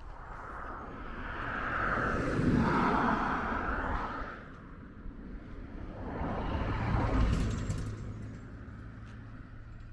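Road traffic: two cars pass one after the other, each swelling and fading, the first about three seconds in and the second about seven seconds in, the second with a low engine hum.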